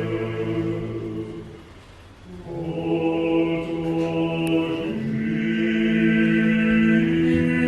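Orthodox church choir singing a slow, unaccompanied liturgical chant in held chords. One chord fades out about two seconds in. A new phrase begins about half a second later and is sustained.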